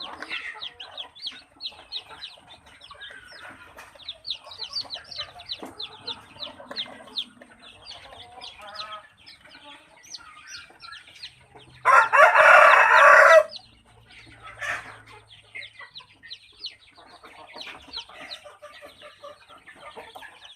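Many newly hatched native chicks peeping in rapid, high, falling chirps, with a rooster crowing once, loudly, about twelve seconds in.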